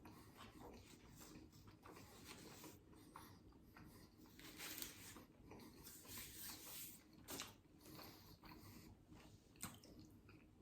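Faint sounds of a person chewing a mouthful of a buffalo chicken wrap, with a few soft rustles and small clicks.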